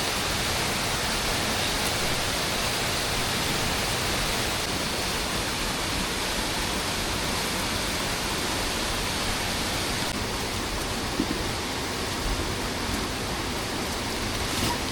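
Steady rushing of water, an even hiss with no change in level, with a few faint ticks in the last few seconds.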